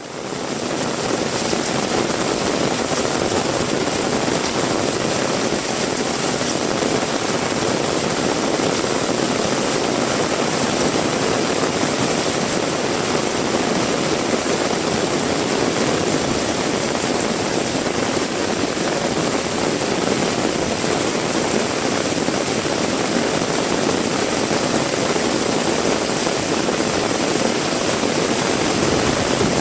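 Heavy rain pouring steadily, a dense even hiss and rush that fades in over the first second and then holds constant.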